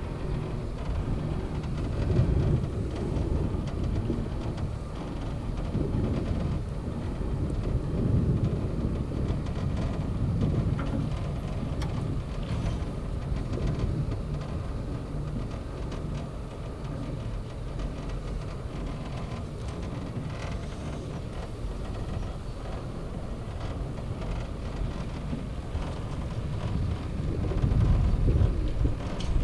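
Wind buffeting the microphone on an open cable car ride: an uneven low rumble that swells in gusts and grows louder near the end.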